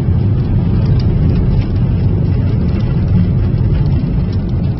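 Steady low rumble of a car being driven, heard from inside, with a few faint light clicks.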